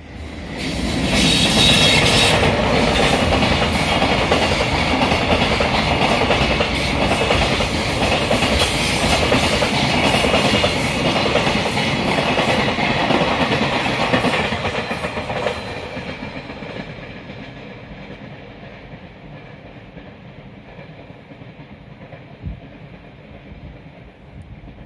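Freight train of flat wagons passing, its wheels clacking rhythmically over the rail joints; the noise dies away after about fifteen seconds.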